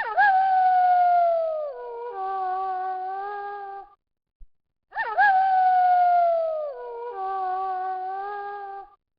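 Wolf howling: each howl swoops up at the start, holds a long note that slides down, then carries on with a second held note. The identical howl sounds twice, about five seconds apart, with a short silence between.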